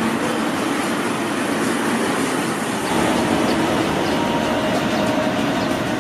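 CRRC CDA5B1 diesel-electric locomotive hauling a long container freight train past, with a steady rumble of engine and wagons on the rails that gets a little louder about halfway through.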